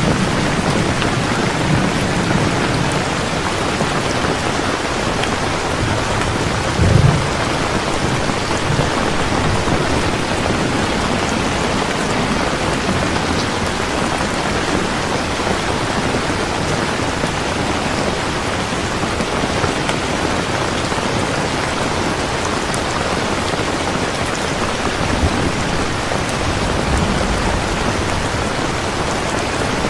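Heavy rain falling steadily, a dense even hiss, with low thunder rumbling under it. The most distinct rumble is a short one about seven seconds in, with fainter ones at the start and near the end.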